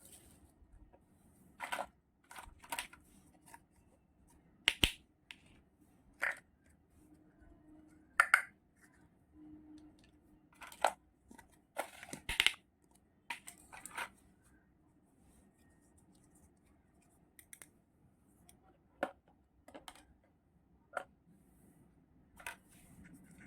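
Miniature toy kitchen set pieces being unpacked and handled: irregular light clicks, taps and knocks, some sharper than others, with pauses between them.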